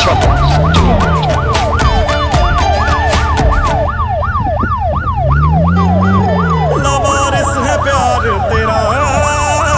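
A fast yelping siren, its pitch sweeping up and down about three times a second without a break, over a background with a regular ticking beat.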